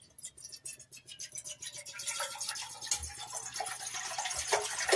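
Water being poured into a cooking pot, a fast splashing trickle that builds up over the first couple of seconds and then runs on steadily.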